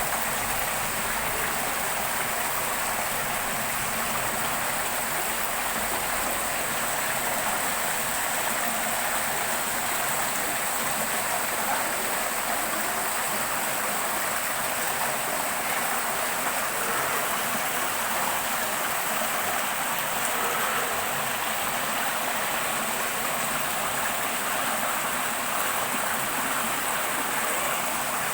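Heavy rain falling steadily, a constant rushing hiss of water.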